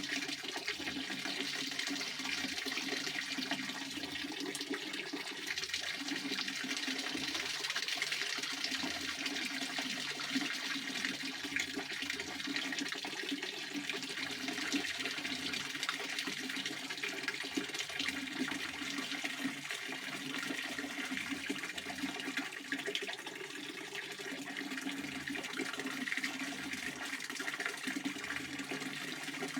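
Pond water fountain splashing steadily: a continuous rush of falling water with no breaks.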